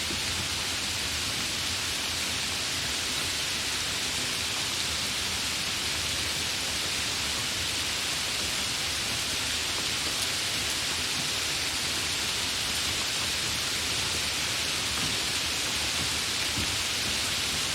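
Steady rain falling, a dense, even hiss without let-up.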